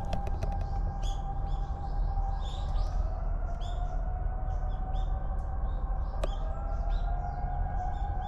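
Small birds chirping with many short, repeated calls, over a steady, slowly wavering tone like a distant siren and a low rumble. A quick run of sharp clicks right at the start and a single click a little past six seconds.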